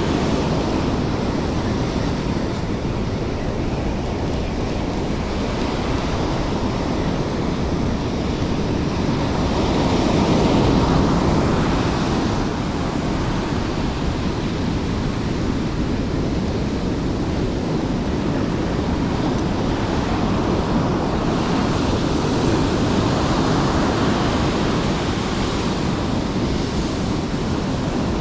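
Steady wash of surf breaking on the shore, with wind rumbling on the microphone; the surf swells louder about ten seconds in.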